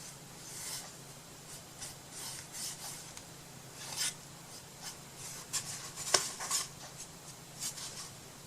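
Paintbrush stroking paint onto a wooden box: soft, irregular scratchy strokes, with a sharp click about six seconds in.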